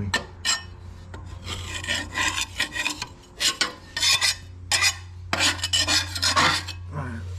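Scraper grating over the underside of a lawn mower deck in quick, uneven strokes, scraping off caked grass clippings. A steady low hum runs underneath.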